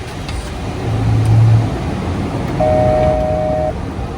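Steady flight-deck noise of a Boeing 737 MAX 8 in descent: airflow and air-conditioning rush, with a low hum swelling about a second in and a steady electronic tone sounding for about a second near the middle.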